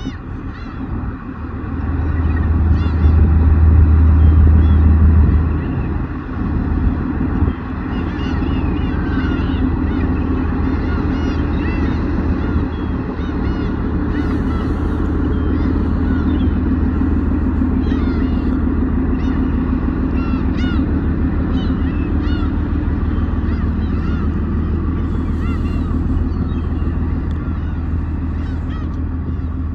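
Black-tailed gulls calling again and again in short cries over the steady low drone of a fishing boat's engine, which swells louder for a few seconds near the start.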